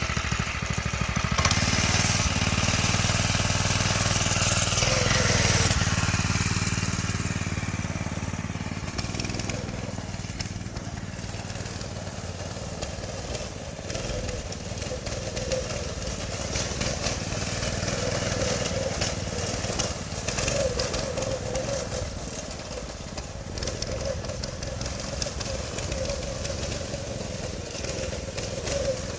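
Predator 212 single-cylinder four-stroke engine on a go-kart running at part throttle as the kart is driven around. It is loudest with a hiss over it a couple of seconds in, then settles steadier and a little quieter.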